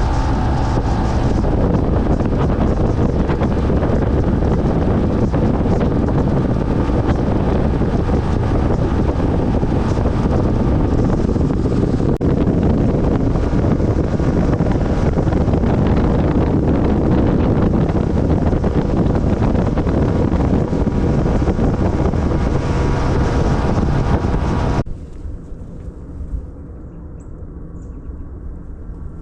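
Small boat's outboard motor running at speed with heavy wind buffeting the microphone. It cuts off abruptly about 25 seconds in, leaving a much quieter low hum.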